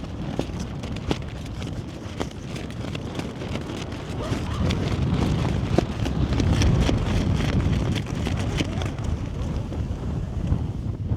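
Strong wind buffeting the microphone, gusting harder in the middle, with many small clicks and crackles over it.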